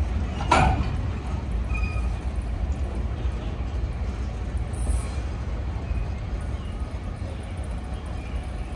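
Train on the line with a steady low rumble that slowly eases off. One brief sharp sound comes about half a second in.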